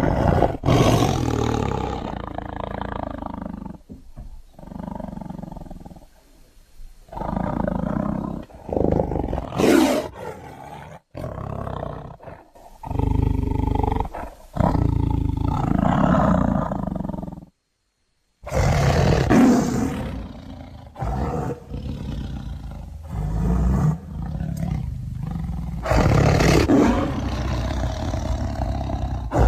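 A tiger roaring, one loud rough call after another with short breaks between them and a brief cut to silence about eighteen seconds in.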